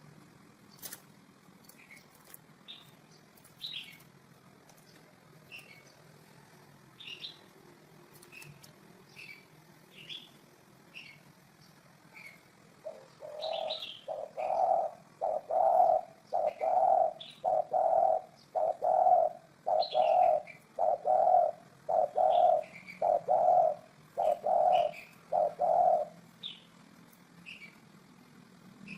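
Spotted dove cooing: a run of about a dozen evenly spaced low coos, roughly one a second, starting about halfway through. Short high chirps from another small bird sound throughout.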